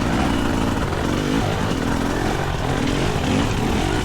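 GasGas EC300 dirt bike's 300 cc single-cylinder two-stroke engine running at low revs, the pitch rising and falling repeatedly as the throttle is worked.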